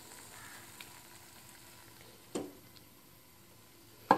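Cooked-down saag sizzling faintly in a steel karahi, its water dried off and the oil separating, as it is stirred with a wooden spatula. The spatula knocks against the pan twice, once about two seconds in and louder near the end.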